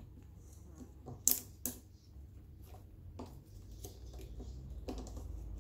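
Pliers and small engine fittings being handled as vacuum hoses are worked off an idle speed control valve: a few sharp clicks and clacks, two close together about a second and a half in, over a faint low hum.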